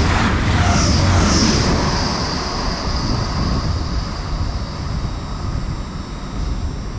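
Grand Central Class 180 diesel multiple unit passing through the station at speed: a loud rumble and hiss with a high whine for the first two seconds or so, fading steadily as the train draws away.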